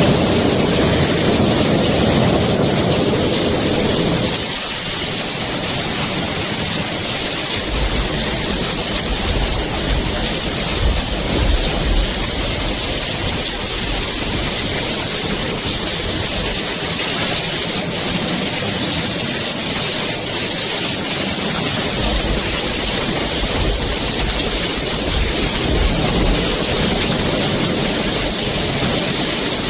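Steady heavy rain hissing, with a low rumble that fades out about four seconds in and deep low rumbles twice later on.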